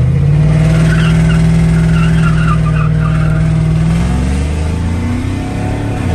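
A donor pickup truck's LS V8 engine held at high revs in a burnout attempt, one tire spinning in the dirt because the open differential sends power to only one wheel. The revs climb higher near the end, then drop.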